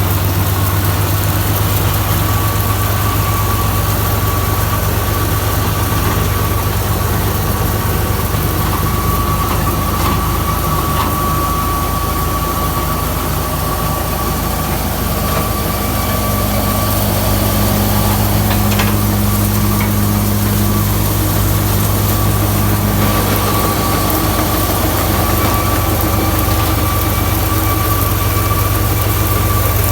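Tractor diesel engine running steadily under a straw reaper, with a constant high-pitched whine over the low engine drone.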